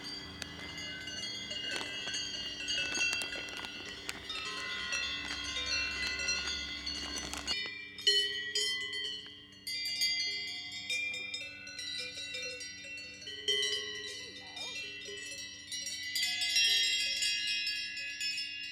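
Several cowbells on grazing cows clanking and ringing irregularly at different pitches, overlapping one another. A low rumble runs underneath and cuts off abruptly about seven and a half seconds in.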